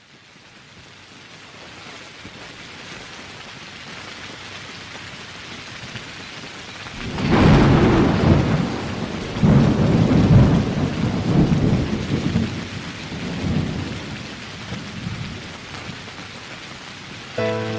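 Steady rain fading in, then a thunderclap about seven seconds in followed by several rolling rumbles of thunder that die away; music begins right at the end.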